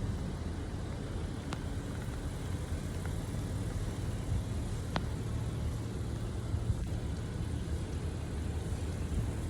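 Steady rain noise with a low rumble under it, and a few faint sharp ticks of drops hitting something close.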